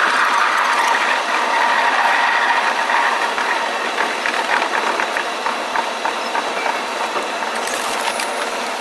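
Inside a JNR 381 series electric train on the move: a steady run of wheel-on-rail noise with fine clicking and a high whine, growing gradually quieter over the second half as the train slows.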